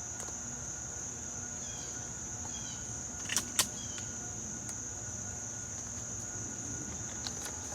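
Steady high-pitched insect drone, a chorus like crickets, with two sharp clicks about three and a half seconds in.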